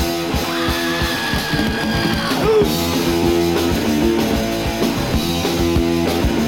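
Punk rock band playing live with no singing: electric guitars, bass and drums, with regular drum hits and a high held note in the first couple of seconds.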